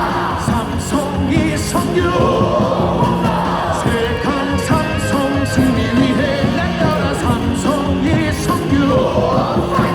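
Baseball cheer song over stadium loudspeakers, with a large crowd singing along.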